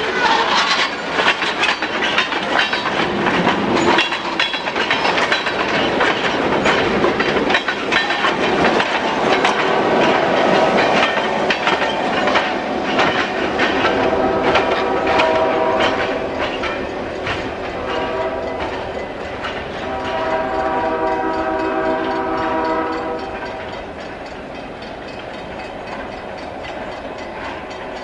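Freight train cars rolling past, wheels clicking steadily over the rail joints. In the second half a train horn sounds in several long blasts, and the rolling noise eases off near the end.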